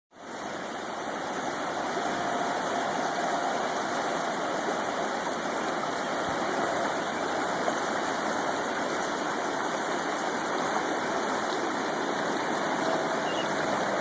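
River water rushing steadily over a crossing, a constant even roar.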